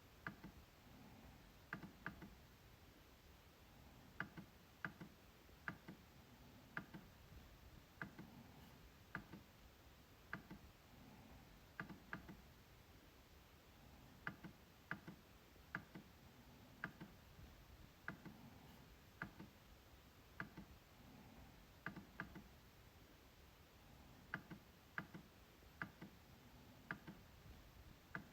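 MacBook trackpad clicking: sharp, irregular clicks, often in quick pairs like double-clicks, with short pauses between runs.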